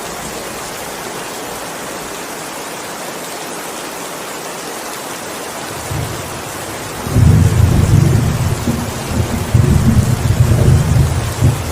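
Steady heavy rain, with a low rumble of thunder that starts about halfway through and rolls on loudly for about five seconds.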